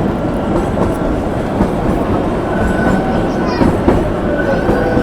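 Narrow-gauge toy train running slowly, heard from inside a passenger coach: a steady rumble and clatter of wheels on the rails, with faint thin squealing tones over it.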